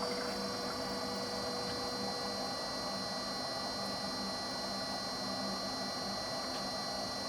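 FMB Pegasus three-phase bandsaw running steadily: an even motor hum with a thin high whine over it.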